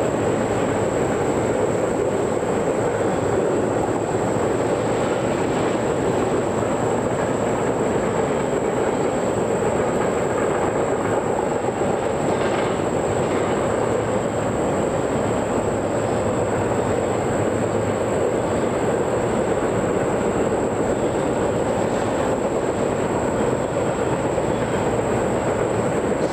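A train's cars rolling past, a steady, unbroken noise of steel wheels on the rails.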